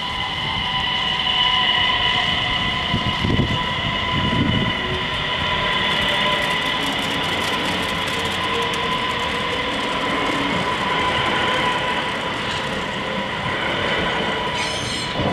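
X31 Öresundståg electric multiple unit passing slowly over a level crossing: continuous wheel and rail noise with a few low thumps about three and four and a half seconds in, over steady high tones.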